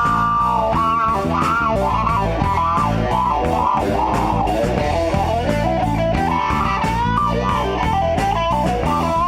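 Live rock band playing an instrumental passage: an electric guitar lead line bending in pitch over bass guitar and a steady drum beat.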